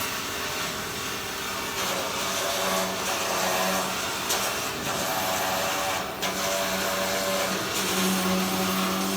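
Steady hissing and crackling of a flux-cored welding arc on stainless steel. A held low tone joins in about three seconds in.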